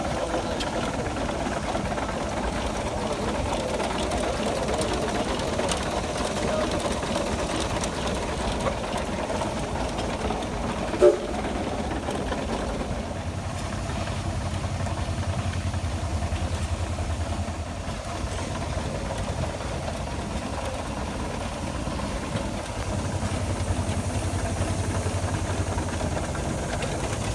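1925 White Model 15 truck engine running steadily, its low running note growing stronger about halfway through. A single sharp click sounds about eleven seconds in.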